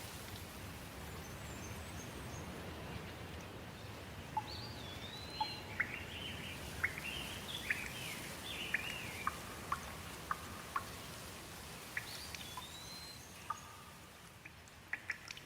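Steady rain with songbirds calling over it: a run of whistled, rising-and-falling chirps and short sharp notes from about four seconds in until near the end. Near the end the rain noise lessens and scattered drips start.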